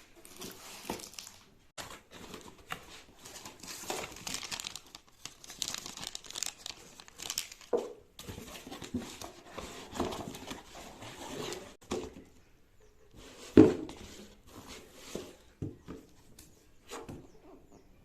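Packaging being handled and opened: irregular crinkling, rustling and tearing, with one sharp knock about two-thirds of the way through.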